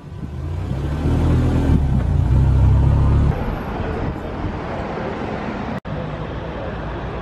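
Toyota MR2 Rev 3 Turbo's turbocharged four-cylinder engine running as the car drives off. It is louder for about a second and a half, from around two seconds in, then settles to a steadier note, with a sudden brief cut near six seconds.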